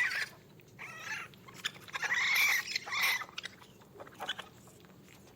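Raccoon making a series of high-pitched calls, the longest about two seconds in, followed by a few faint clicks near the end.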